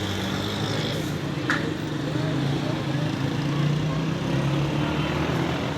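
A steady low motor hum over a haze of background noise, with one short tap about a second and a half in.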